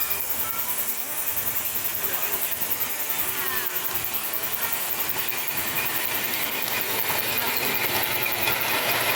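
Miniature live-steam locomotive running, its exhaust beating in a fast, even rhythm and growing louder toward the end as it draws closer.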